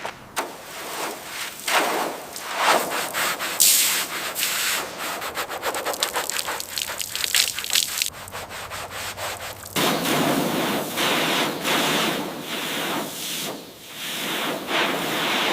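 Quick, rough abrasive strokes rubbing on metal bodywork. About ten seconds in, the sound changes abruptly to a steadier, denser rasp.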